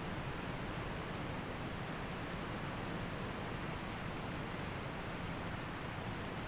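Waterfall water rushing steadily, an even, unbroken noise.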